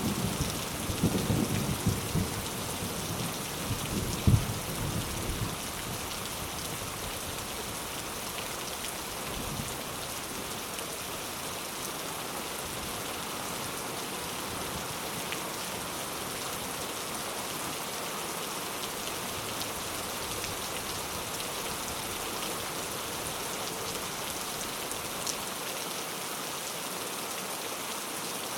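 Steady heavy rain hissing, with a rumble of thunder that swells once about four seconds in and dies away within the first few seconds.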